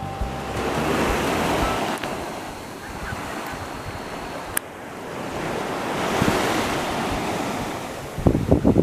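Sea waves washing, the surf rising and falling in two slow swells. Wind buffets the microphone in gusts near the end.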